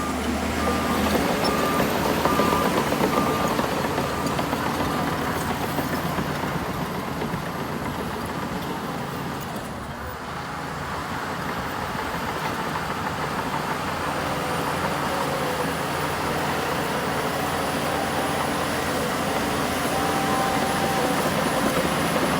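Heavy diesel earthmoving machinery running steadily under load, with a short run of evenly spaced beeps near the start.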